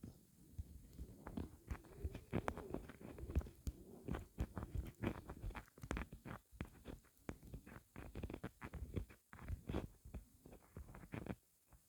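Footsteps crunching in fresh snow, a few irregular crunches a second, with wind buffeting the microphone in low rumbles. It stops just before the end.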